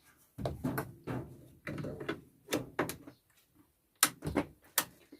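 A run of sharp knocks and clunks of things being handled and set down, about a dozen over five seconds, the loudest pair about four seconds in.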